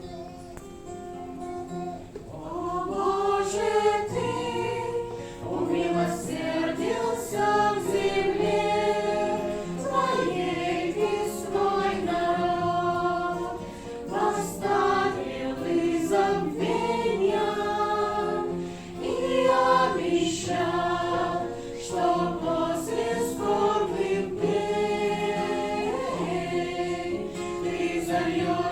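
A choir singing a Christian worship song with musical accompaniment. The voices come in about two seconds in, after a quieter musical opening.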